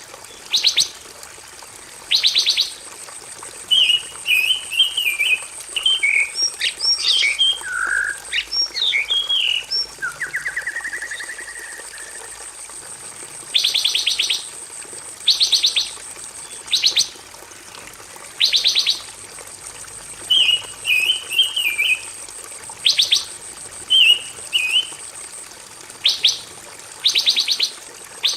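Songbird singing, the 'pancawarna' of a tutor recording for captive birds: short, fast-pulsed chirp notes repeated every second or two, with warbled phrases and a rising trill in between. A faint, steady, very high tone runs behind the song.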